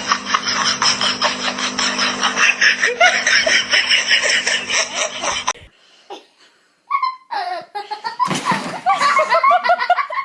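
People laughing hard and continuously, cutting off abruptly about halfway through. After a short near-silence, more laughter with pitch rising and falling.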